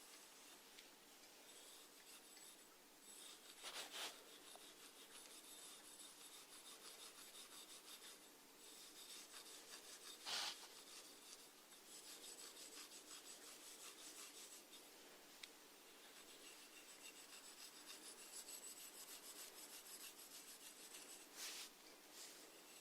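Snails rasping at food as they feed: a faint, fine, steady crackly scraping, with a few short louder rustles about 4, 10 and 21 seconds in.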